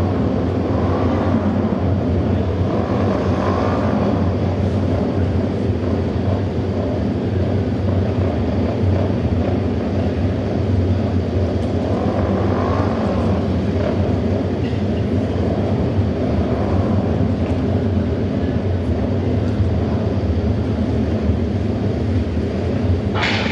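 Japanese auto race motorcycles lapping the oval, their engines making a loud continuous drone, with a few passes swelling and fading.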